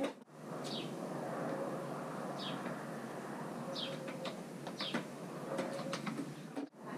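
A few short, high bird chirps over a steady outdoor background hum.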